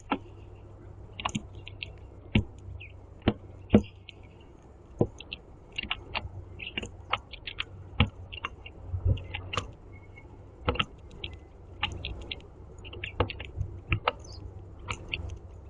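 Blue jay pecking up seeds and hopping on a platform feeder: irregular sharp taps and clicks of its beak and feet on the platform and seed, sometimes several a second.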